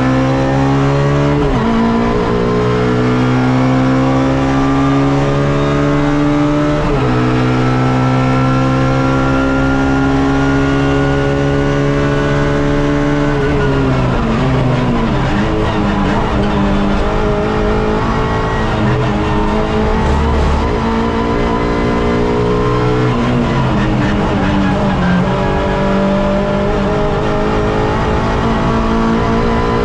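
Suzuki Swift race car engine heard onboard under hard acceleration, rising in pitch with two quick upshifts in the first seven seconds. About halfway through the revs fall away as the driver lifts off and slows. The engine then runs at uneven lower revs before pulling up again near the end.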